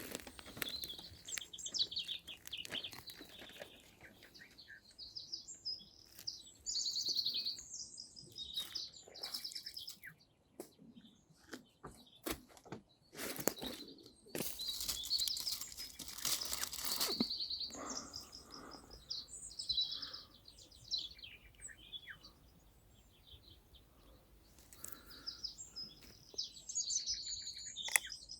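Several songbirds singing in repeated short trilled phrases. Scattered knocks and clicks run underneath, with a louder burst of rustling noise about halfway through.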